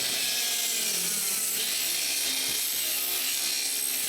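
Electric power saw running steadily and cutting through lumber, its motor hum dipping slightly under load.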